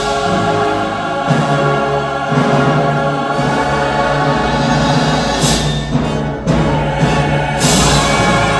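Choir singing held chords in concert, with short bright hissy swells about five and a half and about seven and a half seconds in.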